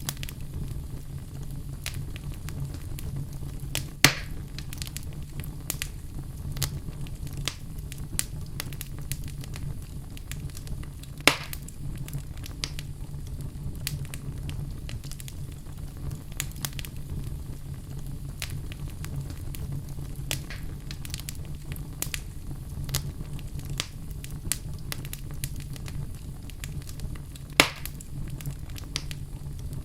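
Wood fire burning in a fireplace, crackling steadily with many small snaps over a low rumble, and three louder pops: about 4 seconds in, about 11 seconds in and near the end.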